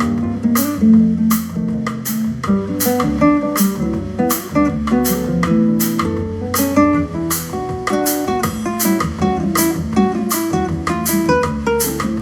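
Music with plucked guitar over a steady drum beat, played back through a portable Bluetooth speaker under test.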